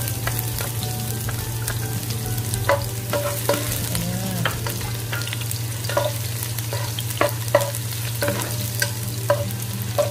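Minced onion and garlic sizzling in hot oil, sautéing, while a wooden spatula stirs them and scrapes and knocks against the pot many times; a steady low hum runs underneath.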